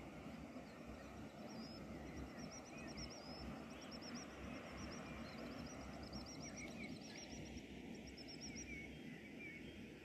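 Faint bird song: a long run of quick, high chirps repeated over and over, starting about a second and a half in and stopping near the end, over a steady faint outdoor background noise.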